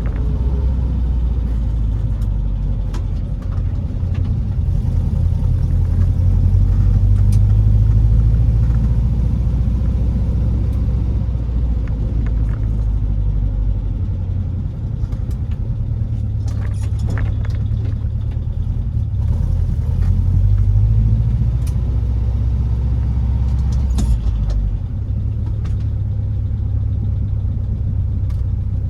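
Classic Ford Taunus V4 engine and exhaust running with a steady low drone. The drone swells louder for a few seconds twice, about a quarter of the way in and again about two-thirds of the way through.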